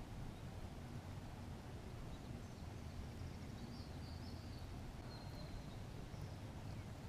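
Faint outdoor ambience: a low steady rumble, with a few faint, high bird chirps between about two and six seconds in.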